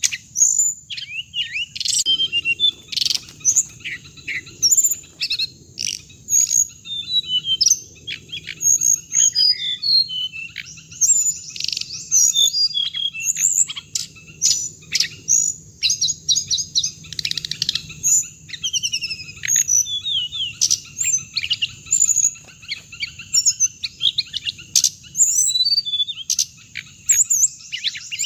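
A continuous stream of rapid, high chirping and twittering from the songbird known in Vietnamese as hồng hạnh. It is a lure recording meant for loudspeaker playback to draw these birds to a trap.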